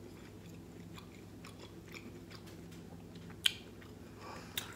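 Quiet chewing of a mouthful of turkey-and-vegetable stuffed bell pepper: soft mouth sounds with scattered small clicks, and one sharp click about three and a half seconds in.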